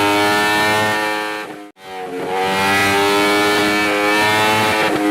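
Yamaha YZF-R1M's crossplane inline-four engine held at high revs through its exhaust, a steady high-pitched note. It cuts out abruptly for an instant under two seconds in, then comes back, dips slightly in pitch and holds steady again.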